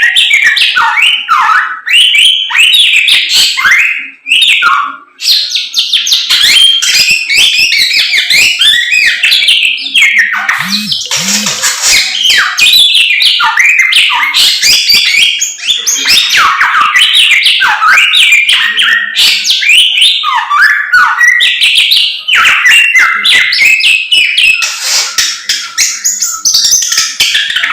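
Caged Chinese hwamei (samyong) in full, loud song: a continuous stream of rapid, varied whistled phrases and trills with rising and falling sweeps, broken by two short pauses about four and five seconds in.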